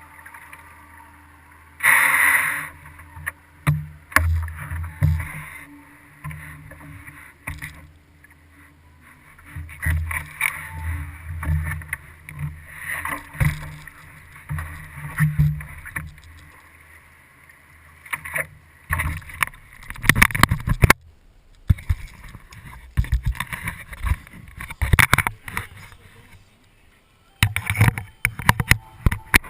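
Kayak on the water, heard from a camera mounted on the hull: uneven low thumps and water sloshing, then a run of sharp clicks and knocks in the second half.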